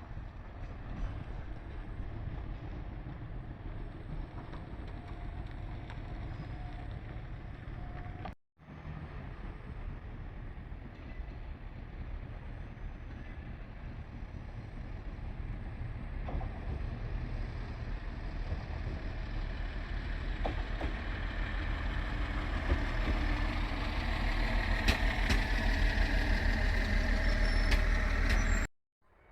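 Train running on the line, a low rumble that grows louder over the second half, with a high whine near the end; the sound breaks off briefly about eight seconds in.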